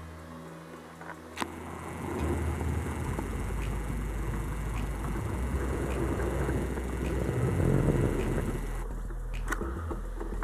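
A vehicle running and jolting over bumpy ground, with a steady low rumble and a sharp knock about a second and a half in.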